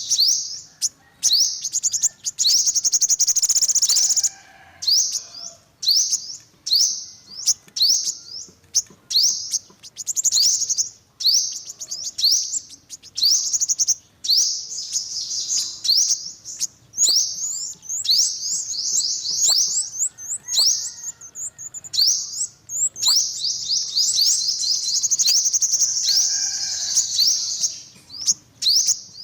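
Yellow-bellied sunbird singing: high, rapid chittering trills and short sharp chirps in quick bursts, some runs lasting a few seconds.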